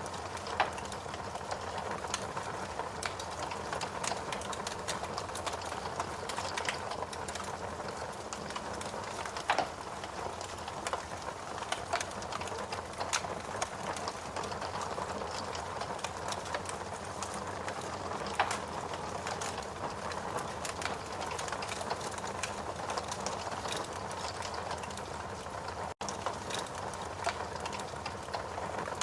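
Wood fire crackling with scattered pops, a few of them louder, over a steady hiss of rain.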